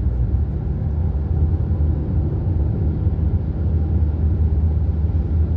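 Steady low rumble of a vehicle driving at road speed: engine and road noise running evenly.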